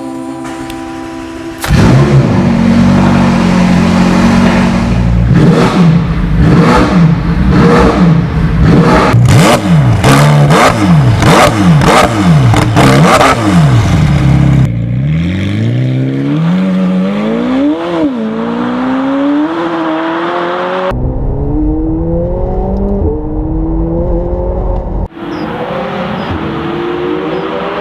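McLaren 720S twin-turbo V8 through a QuickSilver ceramic cat-back sport exhaust, revved hard in quick up-and-down sweeps. After a cut it accelerates, the pitch climbing and falling back at each gear change.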